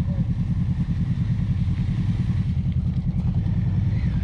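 Motorcycle engine running at steady, low revs, its exhaust pulses coming fast and even while riding a trail.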